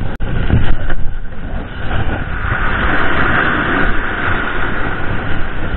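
Steady rushing roar of breaking surf and wind on the beach, loud on the microphone, swelling a little in the middle.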